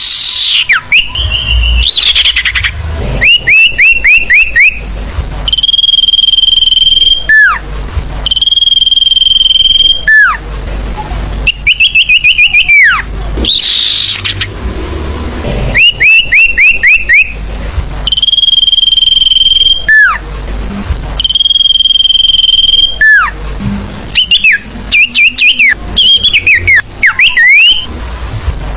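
Sirfu bird lure-call song: repeated phrases of quick down-slurred chirps alternating with long, steady high whistles, each whistle ending in a sharp downward slide.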